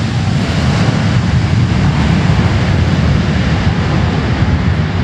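Boeing 767 jet engines at takeoff power: a loud, steady rumble with hiss, heaviest in the low end, with no distinct whine.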